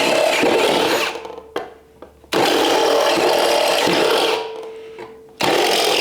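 Power drill boring through 16-gauge sheet steel in three bursts, the bit cutting under load. Between bursts the drill eases off, and after the second it spins with a steady hum before biting again.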